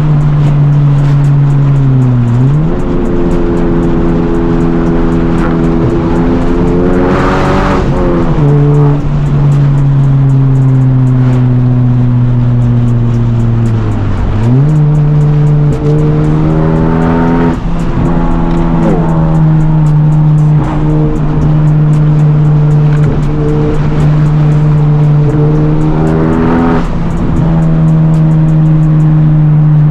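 Honda Civic Type R (FL5) turbocharged four-cylinder with a catless downpipe and resonator delete, driven hard. Its engine note climbs and then drops back several times through gear changes, holding a steady drone in between.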